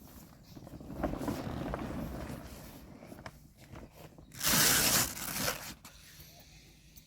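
Large inflatable bouncy castle being deflated: air rushing out and PVC fabric rustling as it collapses, in uneven noisy bursts, the loudest one about four and a half seconds in.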